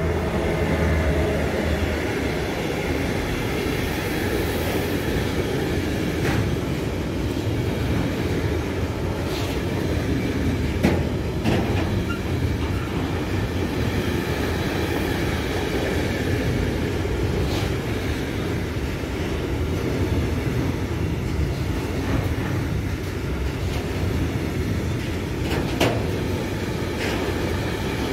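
Container freight train rolling past close by: a steady rumble of wagon wheels on the rails, broken by occasional sharp clacks from the wheels.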